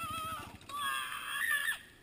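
A person's high-pitched scream in two cries, a short wavering one and then a longer one that rises near its end and breaks off.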